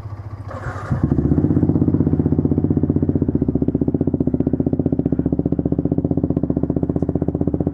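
Motorcycle engine cold-started: it fires about a second in and settles into a steady, evenly pulsing idle.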